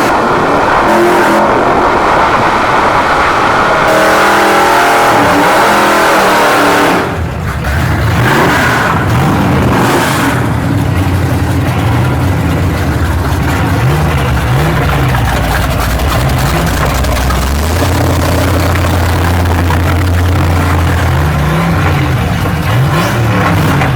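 Car engine running and revving, under heavy rushing noise that drops off suddenly about seven seconds in. After that the engine note rises and falls over and over and holds steady for a few seconds near the end.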